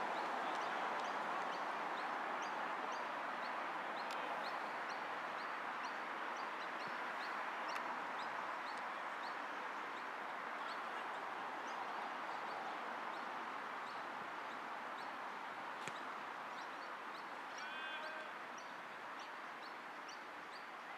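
Birds chirping, many short high calls repeating over a steady background noise, with one longer pitched call about three-quarters of the way through.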